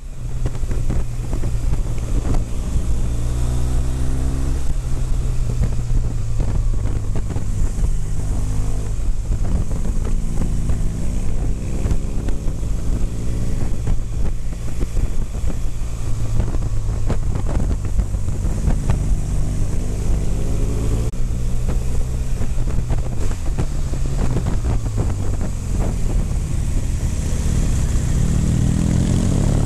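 BMW motorcycle engine pulling away from a standstill and accelerating up through the gears, the revs climbing and dropping back at each gear change, with another climb near the end. Wind rushes over the onboard microphone.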